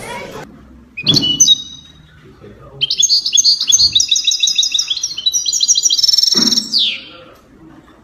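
High, rapid bird chirps and trills: a short chirp about a second in, then about four seconds of quickly repeated notes ending in a falling whistle.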